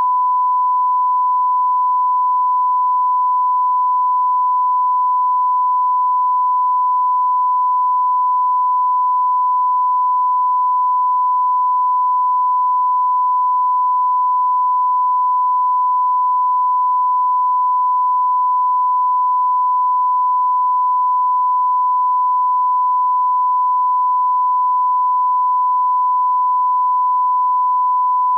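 Steady 1 kHz line-up tone, a single unbroken pure tone at constant level: the broadcast test signal that goes with colour bars.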